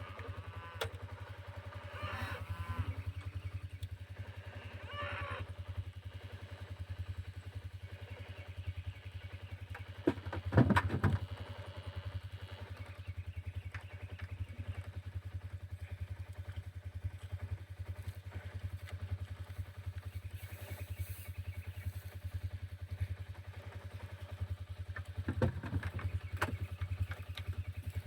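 An engine running steadily at a low, even idle throughout, with cattle mooing a few times over it, the loudest call about ten seconds in.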